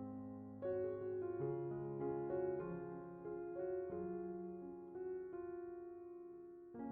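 Background piano music, slow and gentle, with sustained notes and chords changing every second or so.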